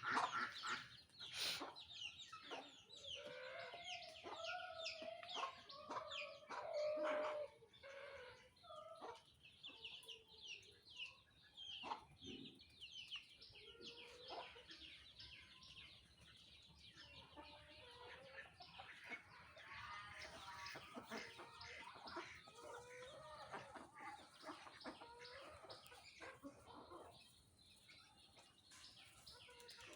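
Chickens clucking, with a steady run of quick, high chirps over them. The clucking is heaviest a few seconds in and again past the middle.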